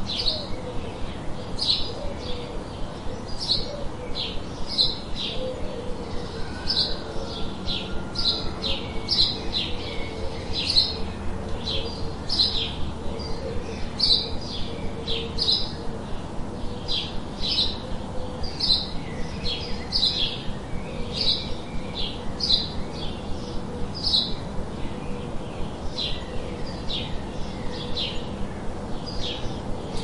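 Birds chirping: short, high chirps repeating about one or two a second without a break, over a steady low tone.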